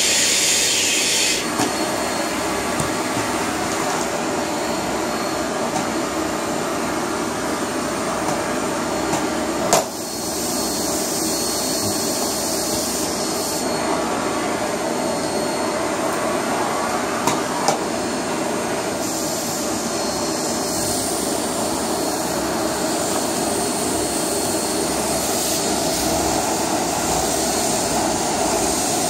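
Household vacuum cleaner running steadily with a constant motor hum. Its airy hiss grows and fades several times, and there are a few short knocks, the sharpest about ten seconds in.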